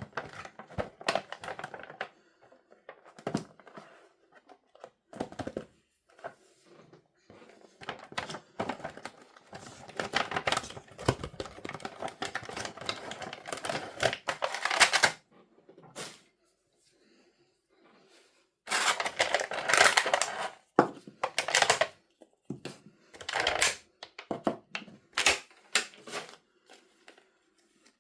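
Packaging handled and opened by hand: irregular crinkling, crackling and tapping. There are two loud dense stretches, one about ten to fifteen seconds in and one about nineteen to twenty-one seconds in, with scattered taps between them.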